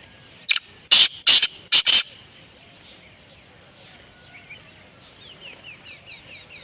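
Black francolin calling: a loud, harsh, grating phrase of about five rasping notes in a second and a half. Near the end a faint run of quick falling chirps, about three a second, from another small bird.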